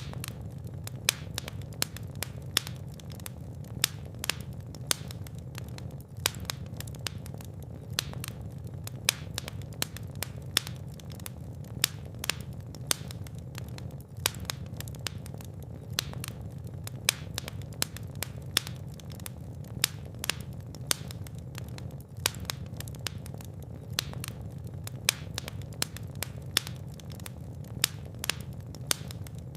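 Fireplace fire crackling: a steady low rumble of flames with frequent sharp pops and snaps.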